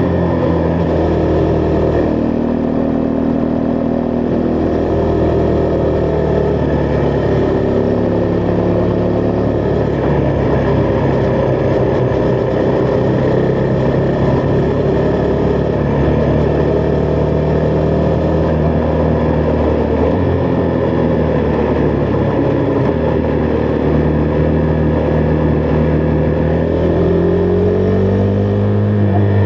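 Husqvarna Vitpilen 401's single-cylinder engine running steadily while riding, its pitch drifting gently with the throttle and rising near the end as it speeds up.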